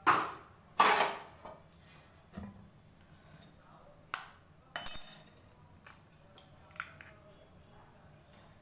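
Kitchen utensils and dishes clinking and clattering: two loud hard knocks with a short ring, one right at the start and one about a second in, more around four and five seconds in, then a few light clicks.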